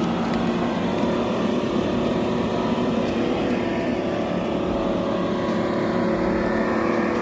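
Engine of a heavy logging machine running steadily at a constant speed.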